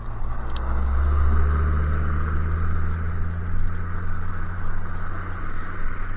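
A motor vehicle's engine running nearby with a steady low hum that comes in about a second in and holds.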